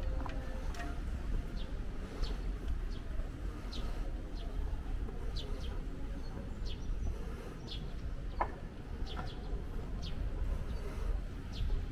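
Small birds chirping in short, high calls, scattered a second or so apart, over a steady low rumble.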